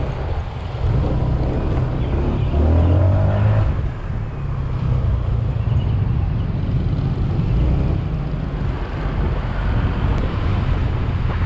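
Scooter engine running as the bike rides along, with wind rumbling over the microphone; the engine note shifts a couple of seconds in.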